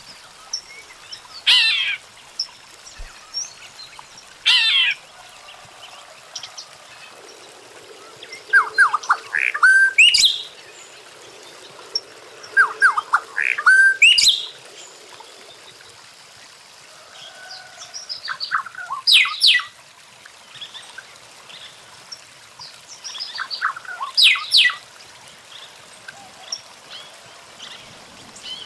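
Songbirds singing in short, separate phrases every few seconds: quick chattering strokes, and twice a run of notes that climbs into a high whistled glide.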